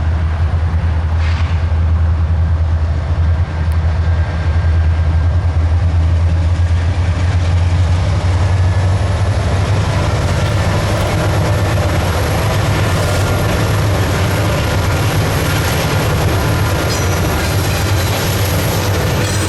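Diesel-hauled intermodal freight train passing, a loud steady rumble of locomotives and cars rolling on the rails.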